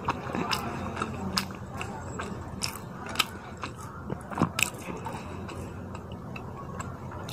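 Close-up chewing of a mouthful of rice and fish curry, with many irregular wet mouth clicks and smacks; a few louder smacks come around the middle.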